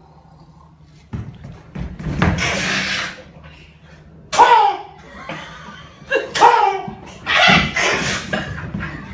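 A man's laughing voice in loud, shrieking bursts, several falling sharply in pitch, likened to a T-rex's. The bursts begin after a quieter first second.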